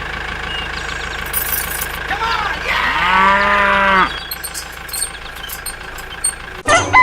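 A cow mooing: a short call about two seconds in, then one long, loud moo about three seconds in, over a steady low hum.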